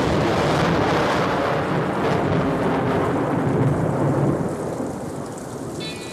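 Recorded thunderstorm at the opening of a song: a long rumble of thunder over steady heavy rain, which eases off during the last couple of seconds, with the song's music starting near the end.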